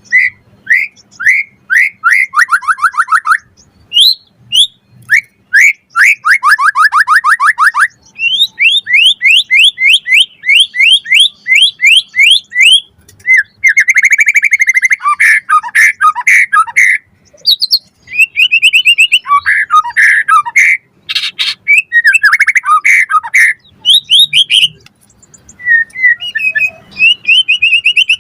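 White-rumped shama (murai batu) singing loudly in a rapid, varied song: fast runs of repeated sliding whistled notes, some falling and some rising, broken by rattling, chattering phrases and short pauses.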